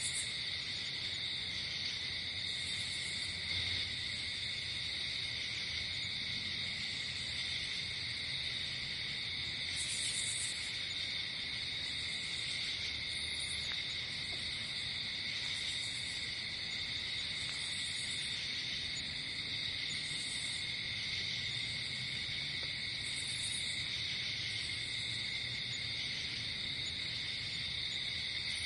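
Night insect chorus: crickets trilling steadily and without a break at several pitches, with short, very high chirps from another insect every two to three seconds.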